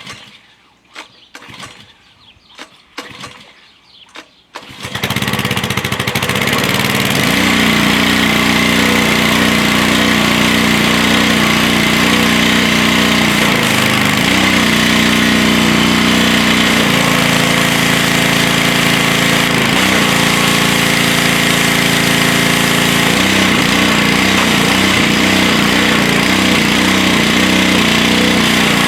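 A few short knocks, then about five seconds in a pressure washer's small engine starts and runs steadily, its low tone shifting every few seconds.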